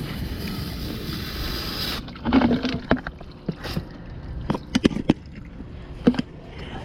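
Garden-hose water spray hissing against the air conditioner's outdoor unit for about two seconds, then cutting off suddenly, followed by scattered knocks and rattles.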